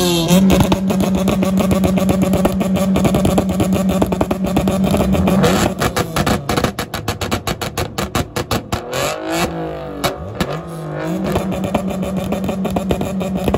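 Car engine revved and held at high revs, then stuttering in rapid pulses, its pitch dipping and rising again, then held high and steady again near the end.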